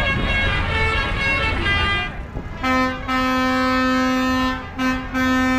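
A vehicle horn sounding one long steady blast from about halfway in, with two short breaks, over the low rumble of engines. Before the horn, a short run of changing musical notes.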